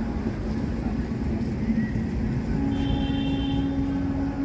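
Steady rumble of the Purvanchal Express's LHB coaches rolling on the rails as the train pulls out of the station. About two-thirds of the way through, a steady high tone comes in over the rumble.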